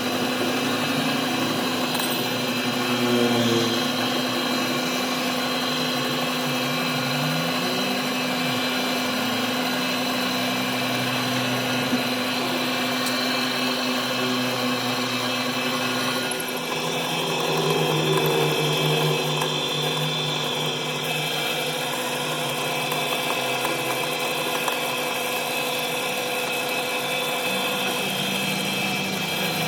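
Power tool running steadily with a held motor whine; its tone changes about halfway through, then holds steady again.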